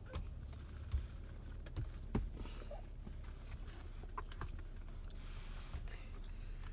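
Windshield wipers flicked across a wet windshield, heard from inside the car cabin: a few light clicks and knocks and a brief swish about five seconds in, over a low steady hum.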